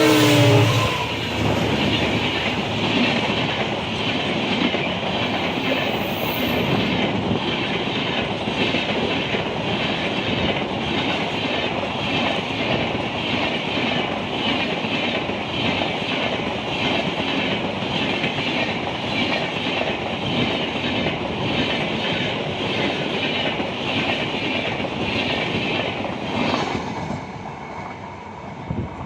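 An Indian Railways train passing at speed, its wheels clattering over the rail joints in a steady, even rhythm. The clatter falls away near the end as the train goes by. The tail of a horn cuts off just as it begins.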